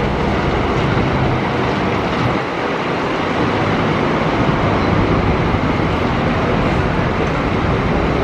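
Scania K400 double-decker coach's diesel engine running under a steady rush of road and wind noise. The engine hum is clearest in the first second or so, and the noise dips briefly about two and a half seconds in.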